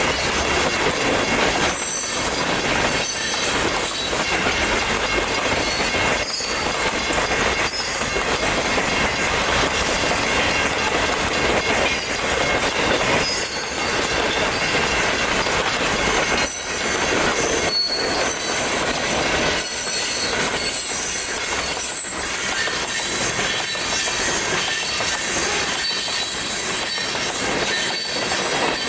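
Freight cars of a local freight train rolling through a grade crossing, with wheels clacking over the rails and squealing at a high pitch, at a steady loud level.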